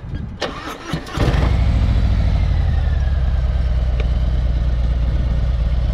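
A Harley-Davidson V-twin motorcycle engine cranks briefly on the starter and catches about a second in, then idles steadily with an even, loping pulse.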